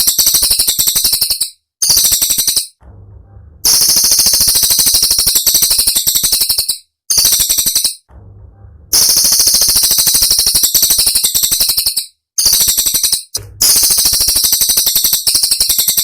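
Cililin songbird singing rapid-fire, high-pitched trills, the sharp 'tembakan' song, in bursts of one to three seconds broken by short pauses.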